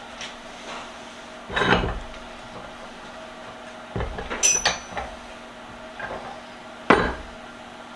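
Metal vise parts being handled and fitted together during reassembly: a few separate knocks and clanks, one about halfway through with a short, high metallic ring, and a sharp knock near the end.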